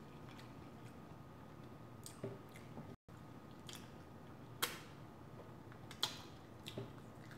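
Quiet close-up chewing with a few short, wet mouth smacks and clicks, the loudest about four and a half seconds in.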